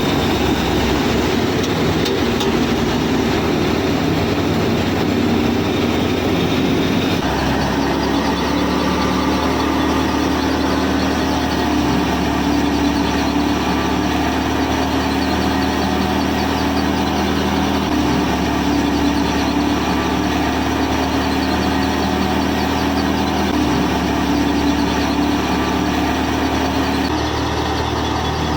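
A motor running steadily with an even hum. Its tone changes abruptly about a quarter of the way in and again a few times later.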